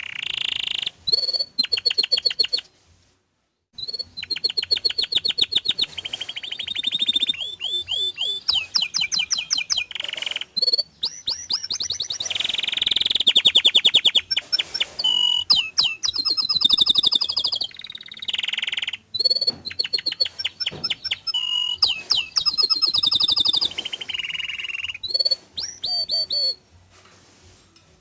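Domestic canary singing a long, fast song of rolling trills and rapid runs of repeated high notes. It pauses briefly about three seconds in and stops shortly before the end.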